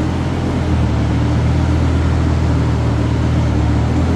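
Lamborghini engine idling steadily with a low, even hum, on its stock exhaust before the titanium slip-on is fitted.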